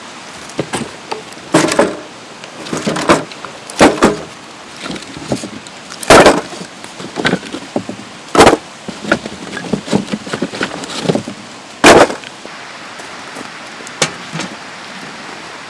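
Irregular knocks and clatters, about five of them loud and sharp, over a steady hiss.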